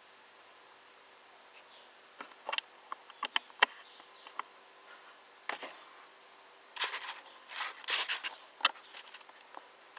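Hands handling a small diecast model car: scattered light clicks, then a busier run of short scrapes and clicks from about seven seconds in, over a faint steady hum.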